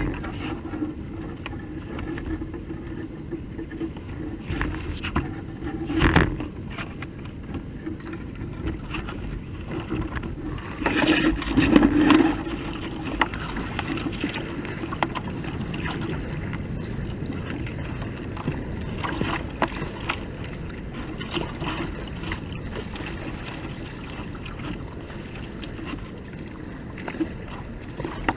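Rushing water at a river rapid as racing canoes go through it, with a short louder burst about six seconds in and a longer louder stretch around eleven to twelve seconds in.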